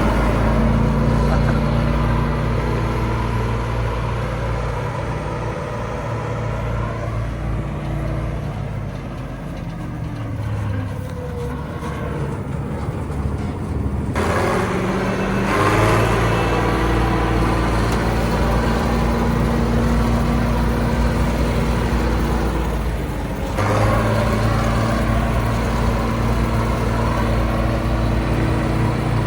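A large engine running steadily with a low, even drone, its tone shifting abruptly twice.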